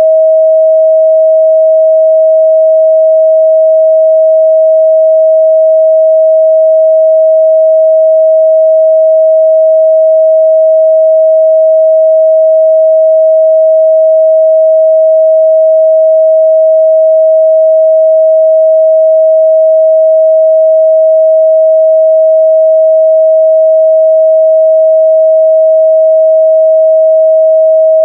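A steady, unbroken pure sine-wave test tone at 637 Hz, held at a constant loud level, used to check the midrange response of speakers and headphones.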